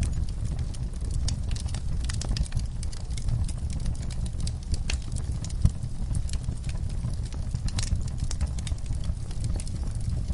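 Log fire burning, with a steady low rumble of the flames and irregular sharp crackles and pops from the burning wood.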